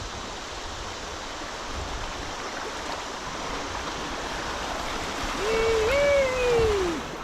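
River water running steadily past a kayak through fast current. Near the end comes one long pitched call that rises and then falls away, over about a second and a half.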